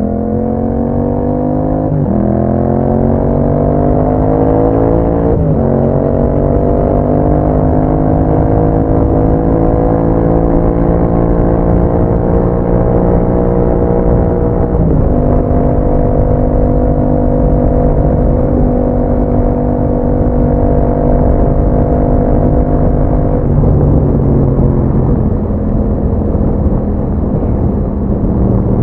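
2021 Yamaha MT-07's parallel-twin engine through an Akrapovič exhaust, under way and pulling up through the gears: the pitch climbs and drops suddenly at upshifts about two, five and fifteen seconds in. It then holds a steady cruise until the revs fall away with the throttle closed near the end.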